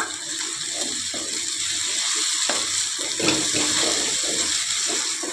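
Chopped tomatoes sizzling in hot oil in a steel kadhai, stirred with a wooden spatula that scrapes and knocks against the pan.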